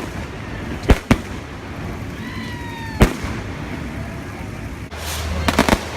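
Festival fireworks going off: two sharp bangs about a second in and another at three seconds, then a fast string of crackling reports from about five seconds in.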